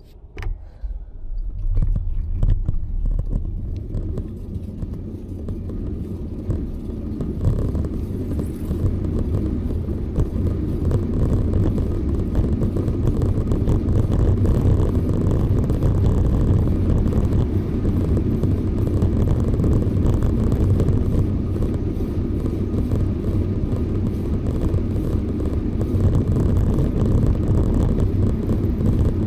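Steady low rumble of wind and rolling noise from a moving bicycle ride, building up over the first couple of seconds and then holding.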